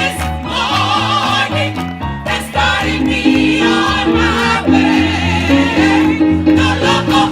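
Gospel choir singing with band accompaniment: wavering voices over a bass line that moves in steps.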